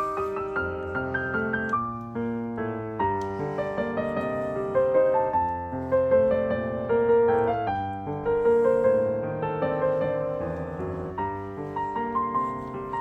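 Piano music: a continuous run of struck notes and chords, each fading after it is played.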